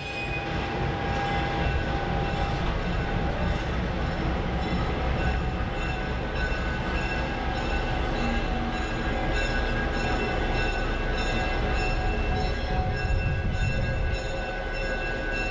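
Train in motion heard from its caboose: a steady rumble of wheels on the track, with faint thin high ringing tones over it.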